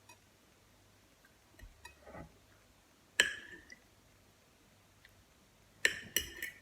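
Cutlery clinking against a plate while eating, one sharp ringing clink a little after three seconds in and a quick run of three or four near the end, with a soft wet squish of food just before the first clink.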